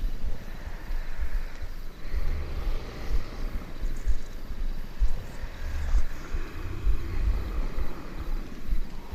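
Mixed sleep soundscape of people breathing and snoring and a cat purring, over soft rain. A rough low rumble swells and fades every couple of seconds over a steady hiss.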